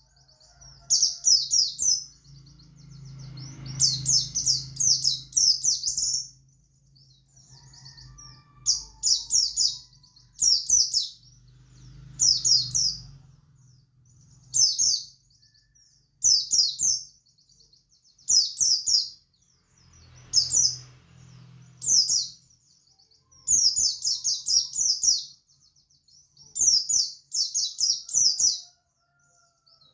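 Pleci buxtoni white-eye singing in its 'ngalas' style: short bursts of rapid, very high twittering notes, repeated every second or two.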